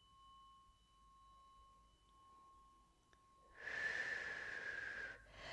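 A struck tuning fork ringing faintly in a few steady high tones, then about three and a half seconds in a long audible breath out lasting about a second and a half.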